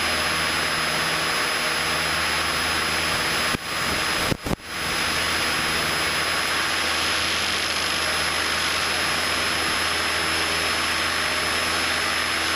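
Cessna 152's four-cylinder Lycoming O-235 engine at full takeoff power in the initial climb, a steady low drone under loud wind and propeller hiss, heard in the cockpit. The sound briefly drops out twice a little before the middle.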